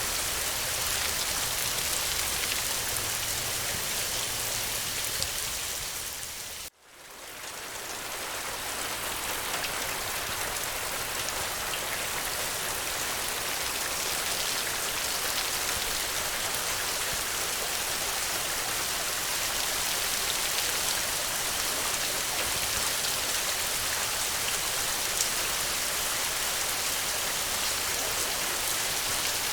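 Steady rain falling on the ground, an even hiss of drops. About seven seconds in it fades out almost to silence for a moment, then fades back in.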